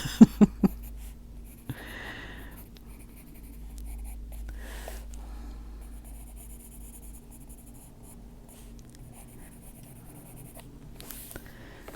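Colored pencil shading on paper: soft, uneven scratching strokes of the lead across a coloring-book page, with a few short clicks in the first second.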